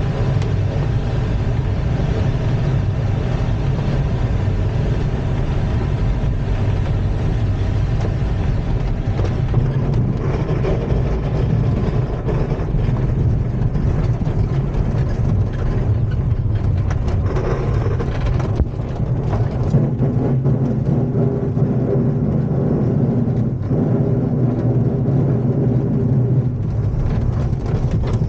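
Steady rumbling and rushing noise inside an ASK-21 two-seat glider's cockpit during the landing and rollout. The higher rushing thins out about two-thirds of the way through while the low rumble goes on.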